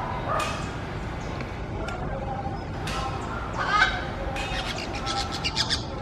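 Birds calling: scattered short calls, a louder call a little past halfway, then a quick run of rapid sharp notes near the end.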